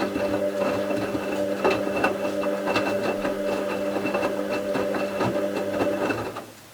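Bauknecht WA 7778 W washing machine's drum motor running with a steady hum and scattered knocks from the turning drum, then stopping about six seconds in. The machine's drum bearing was beginning to fail.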